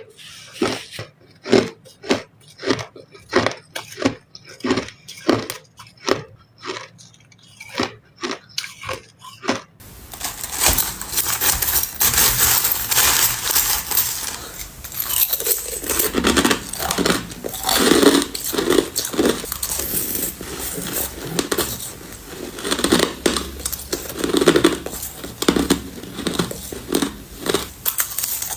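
Crushed ice being bitten and chewed close to the microphone. For the first ten seconds there are separate crunches, about one or two a second; then it changes abruptly to dense, continuous crunching.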